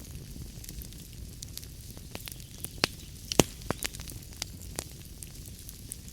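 Wood fire crackling in a fireplace: irregular sharp pops and snaps over a soft steady hiss and low rumble, with a cluster of louder pops a little past the midpoint.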